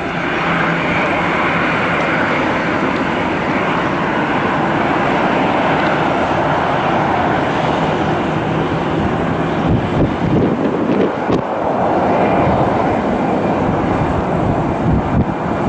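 Jet airliner engines running loud and steady, a continuous rushing roar with a faint low hum underneath. A few dull low knocks come about ten seconds in.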